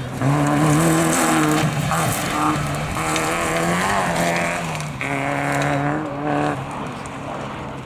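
Rally car engine revving hard on a dirt stage, its pitch climbing and dropping several times as the driver works through the gears. The engine grows quieter after about six and a half seconds.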